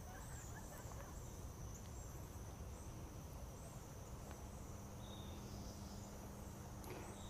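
Insects trilling steadily in one high thin tone, with a few faint short bird chirps over a low outdoor rumble.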